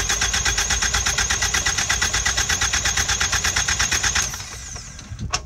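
Ford Focus ST engine turning over on the starter for a compression test, a fast, even beat of compression pulses while the gauge on one cylinder climbs. The cranking stops about four seconds in.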